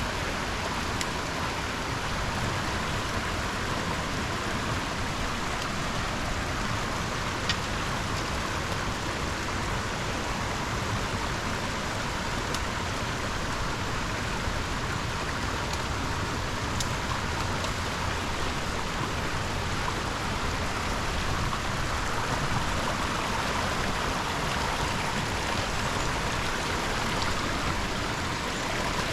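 Shallow river water flowing steadily, an even rushing hiss, with an occasional faint tick.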